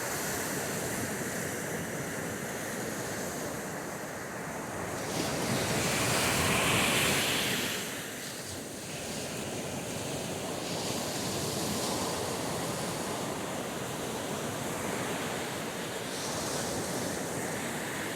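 Steady rush of wind and waves on open water, with wind blowing across the microphone; it swells a little about six seconds in.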